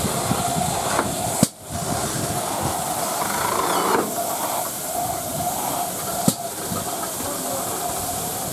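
Steam locomotive hissing steadily as steam escapes. There is a sharp click about a second and a half in and another near six seconds.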